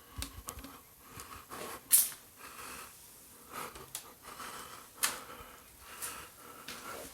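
Footsteps scuffing and crunching on a littered floor, with irregular sharp cracks about a second apart, the loudest about two seconds in and another about five seconds in.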